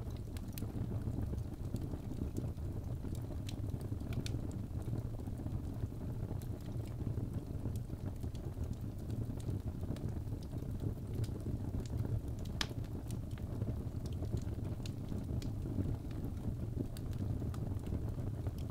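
Birch log fire burning in a fireplace: a steady low rumble of flames with scattered sharp crackles and pops, one louder pop about two-thirds of the way through.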